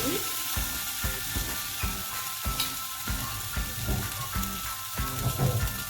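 Pasta and leftover chicken curry sizzling in chili oil in a frying pan while being stirred, with repeated low knocks of the utensil against the pan.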